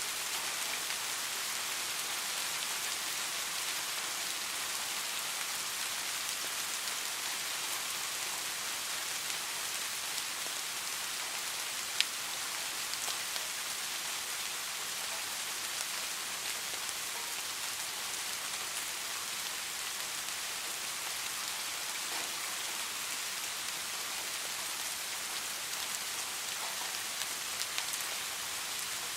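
Steady rain falling, an even hiss with a few sharp drop ticks scattered through it, one louder tick about twelve seconds in.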